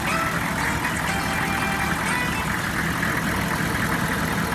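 2002 Chevy 3500's 6.5 liter diesel V8 idling steadily, warmed up after about 20 minutes of running.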